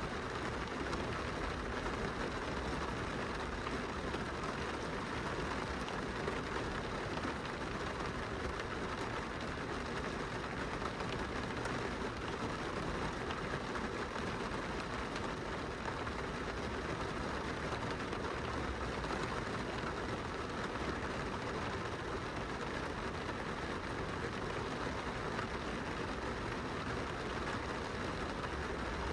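Steady rain falling on a glass window, an even hiss that neither rises nor breaks.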